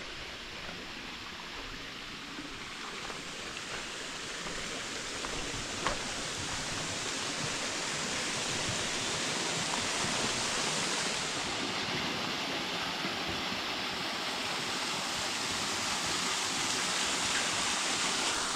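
Waterfall rushing steadily into a pool, growing louder over the first several seconds and then holding steady. A single sharp click about six seconds in.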